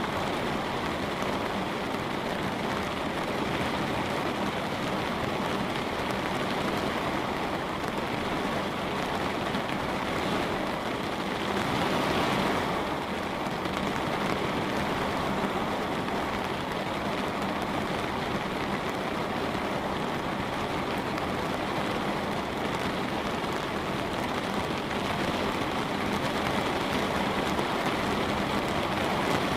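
Light rain falling on a window: a steady hiss of drops, swelling slightly about twelve seconds in.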